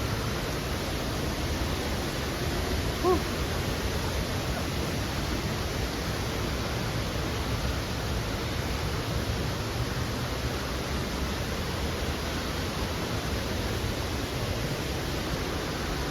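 Waterfall rushing steadily, with one short pitched call about three seconds in.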